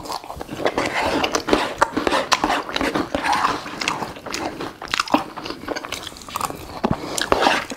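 A person eating with his mouth close to the microphone: crisp crunching bites and quick wet chewing clicks.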